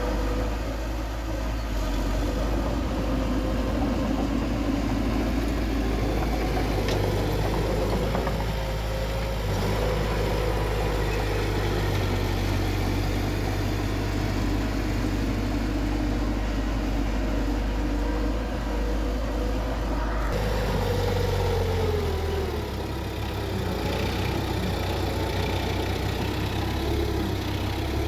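Heavy earthmoving machine's diesel engine running steadily under load, its note dipping and shifting about three-quarters of the way through.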